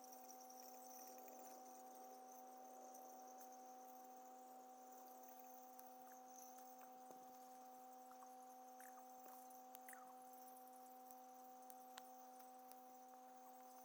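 Near silence with a faint, steady hum of one low pitch with its overtones, unchanging throughout. There are a few faint chirps and clicks around the middle.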